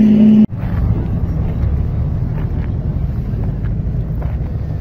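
A steady engine drone cuts off abruptly about half a second in. It gives way to the low, steady rumble of sports-car engines idling in a slow-moving queue.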